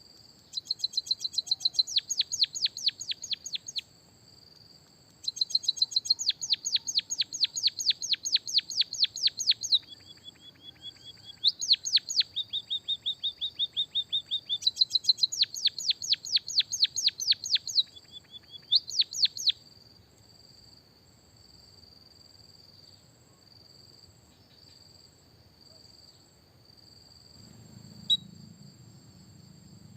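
A songbird singing rapid canary-style trills: fast runs of repeated downward-sweeping notes in about five bursts, stopping after about 20 seconds. Under it runs a steady, high cricket-like trill.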